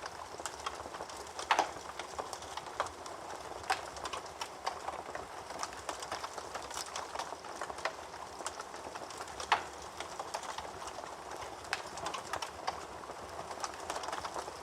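Wood fire burning in a fireplace: a steady hiss of flames with frequent irregular crackles and pops, the loudest pops about one and a half and nine and a half seconds in.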